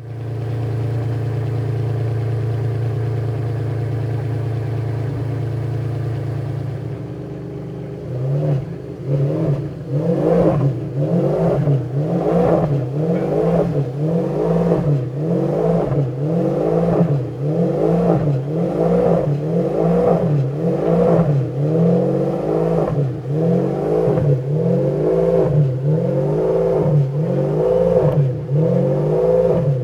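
Ferrari P4/5 by Pininfarina's Enzo-based V12 engine idling for about seven seconds, then revved in quick throttle blips about once a second, the pitch rising and falling with each blip.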